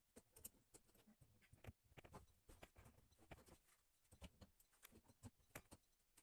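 Near silence with faint, irregular clicks and scrapes: plumbing fittings for a bidet's T-joint being handled and tightened.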